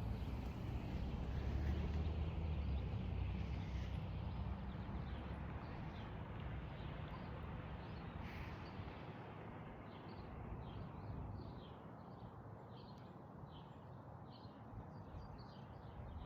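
Outdoor ambience: a low rumble that is strongest in the first few seconds and then fades. From a little past the middle, a bird chirps over and over, about two short high chirps a second.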